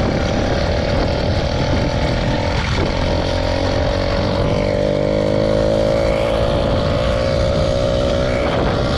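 Small motorbike engine running steadily under load on a ride, its pitch creeping up slowly in the second half as it gathers speed. The rider finds the new sprocket gearing makes it slow to build speed.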